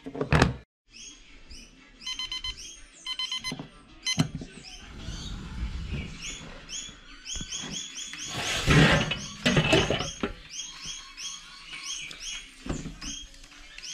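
Small birds chirping, short high calls repeated many times a second over much of the stretch. A louder rustling burst comes about nine seconds in, and a few sharp clicks a couple of seconds in.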